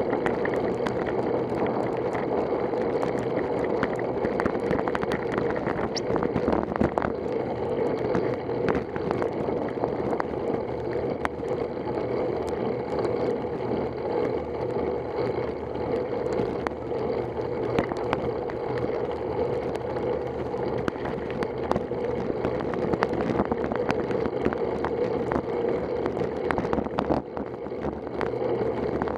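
Steady wind and wet-road tyre noise from a bicycle ride in the rain, with many scattered sharp ticks.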